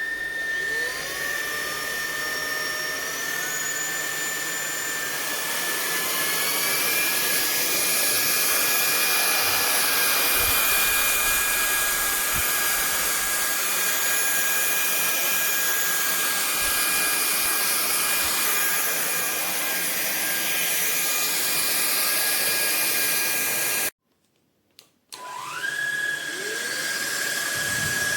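Fieety 50kPa/600W cordless stick vacuum's motor spinning up with a rising whine and running at a steady high whine. Near the end it is switched off for about a second, then spins up again.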